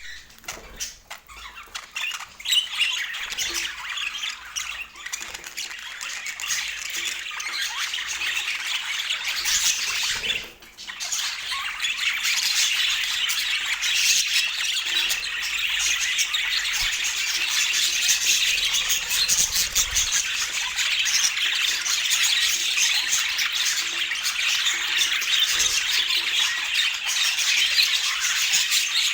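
A flock of budgerigars chattering continuously, with a short lull about ten seconds in.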